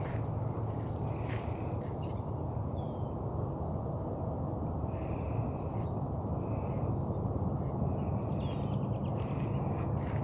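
Wild birds giving short chirps and whistles here and there, with a rapid trill of clicks about eight seconds in, over a steady low outdoor rumble.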